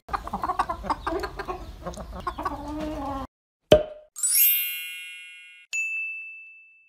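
Cartoon sound effects: hens clucking for about three seconds, then a sharp knock as a wooden mallet strikes an egg. A shimmering chime of several ringing tones follows and fades, then a single high ding rings out and fades near the end.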